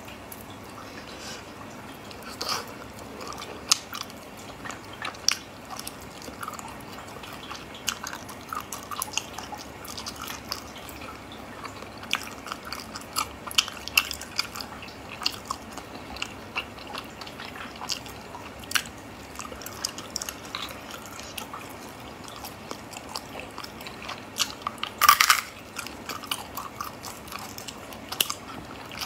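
Close-miked chewing and mouth sounds of a person eating spicy snails and picking the meat out of the shells by hand, with many short, scattered clicks. One louder burst about 25 seconds in.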